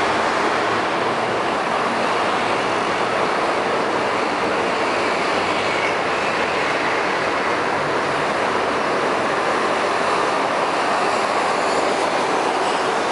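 Metro train running on the track: a steady, unbroken wheel-on-rail noise.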